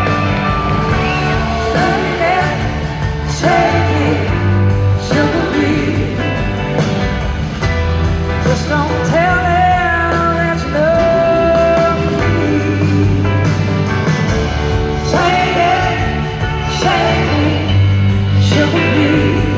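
Live rock band playing a passage without lyrics: steady bass and drums under a lead line that slides and bends in pitch.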